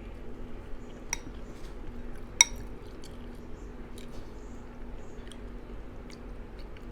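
A spoon clinking against a bowl during eating, with a few sharp clinks: the loudest about two and a half seconds in, another about a second in, and several fainter ticks, between soft eating sounds.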